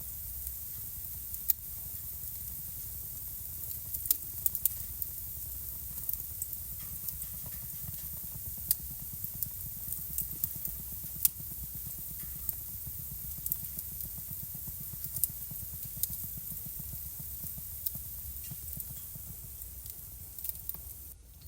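Wood fire burning in a fireplace: a steady low rumble of flames with sharp crackles and pops at irregular moments, a few of them louder snaps. The sound briefly drops out near the end.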